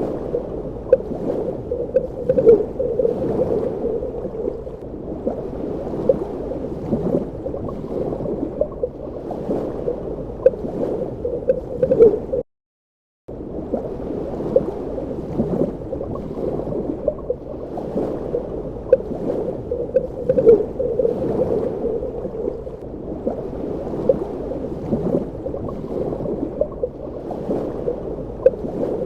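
Underwater ambience: a continuous muffled water sound, dull and low, flecked with small faint clicks. It cuts out to total silence for under a second about twelve seconds in, then resumes unchanged.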